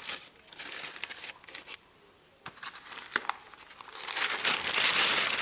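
Newspaper being crumpled by hand for kindling: rustling crinkles in bursts with a brief pause partway through, becoming louder and denser near the end.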